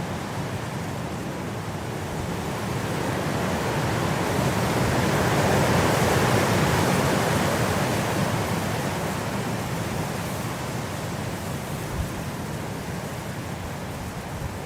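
Blizzard wind blowing steadily, one gust swelling to its loudest near the middle and easing off again.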